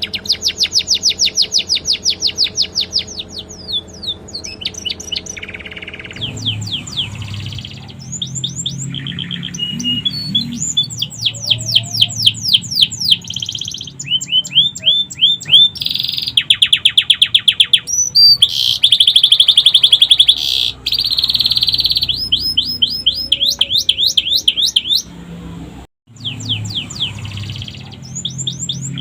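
Domestic canary singing a long, loud song of rapid trills and fast series of repeated high notes, switching phrases every second or two, its repertoire filled in with phrases copied from the sikatan londo. The sound cuts out briefly near the end.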